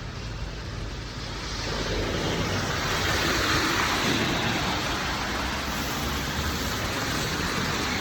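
Tyres hissing on a rain-wet street as a vehicle passes, the hiss swelling about two seconds in and staying up, over steady rain.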